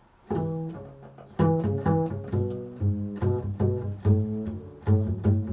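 A low-pitched string instrument plucked in an improvised run of notes, a few a second, starting a moment in.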